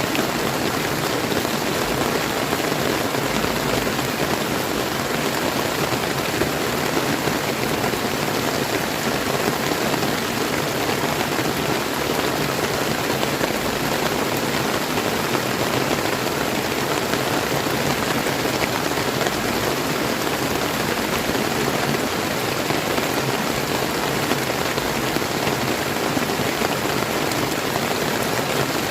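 Steady rain falling, mixed with the flow of a clear river, an even unbroken wash of sound.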